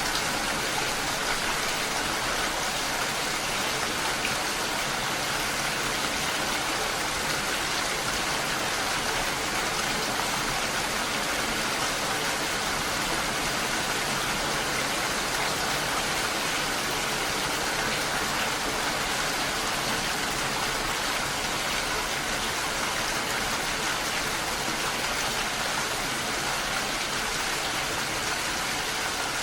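Steady rain falling, an even, unbroken hiss with no separate drops standing out.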